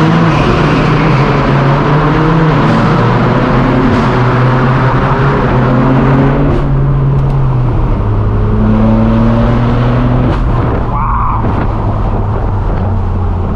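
Loud exhaust of several high-performance cars driving together, including a straight-piped BMW M4 F82 with its twin-turbo inline-six. Several engine notes at different pitches overlap, holding steady with some gently rising and falling.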